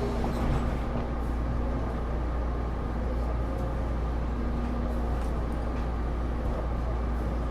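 Interior noise of a Taipei Metro Series C301 subway car: a steady deep rumble with faint steady hums, no rise or fall in pitch.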